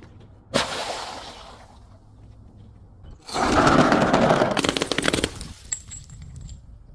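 Something brittle being crushed and breaking. There is a single sharp crack about half a second in, then, about three seconds in, a longer stretch of dense crunching and crackling that trails off into scattered ticks.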